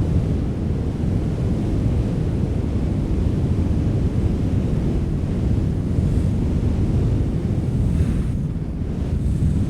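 Strong wind blowing, a steady low rushing noise that eases a little about eight and a half seconds in.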